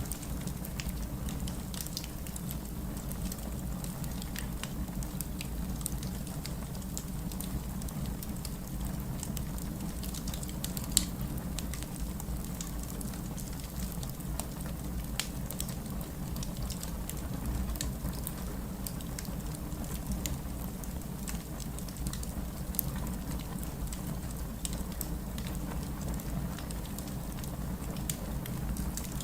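Steady rain falling with a low rumble, mixed with a crackling wood fire whose sharp pops and snaps come at irregular intervals, one louder pop about eleven seconds in.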